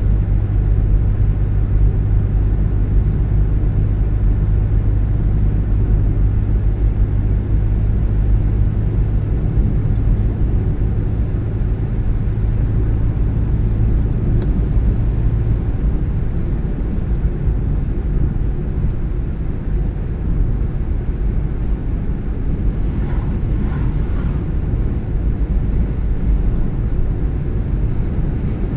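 A car being driven on the road: steady low rumble of engine and tyres. A low drone in the rumble eases off about halfway through.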